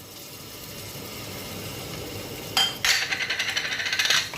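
Chopped garlic hitting hot olive oil in a pan: a low hiss, then about two and a half seconds in a sudden loud sizzle with crackling.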